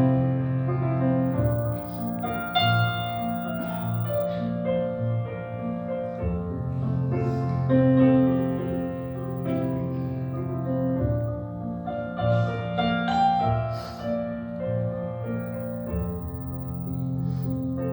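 Piano music: a slow melody over held chords, notes changing about every second.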